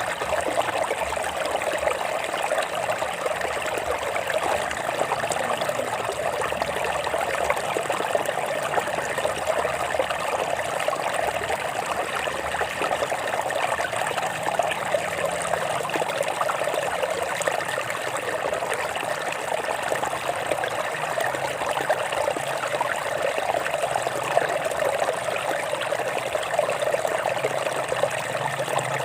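Water running over rocks in a shallow stream, a steady trickling and babbling with no change in level.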